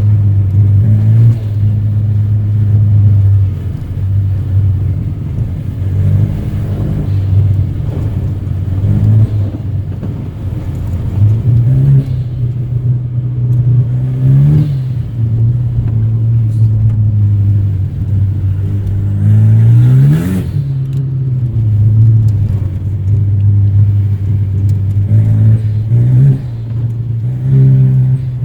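Straight-piped, turbocharged 2.0-litre four-cylinder engine of a Renault Mégane RS 225, with no catalyst, resonator or silencers, running under a driver's changing throttle. The engine note holds low and steady, steps in pitch a few times, and the revs climb sharply twice, about 14 and 20 seconds in.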